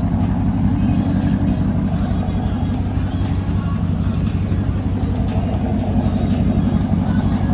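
Car engine running steadily, with a dense, even low rumble.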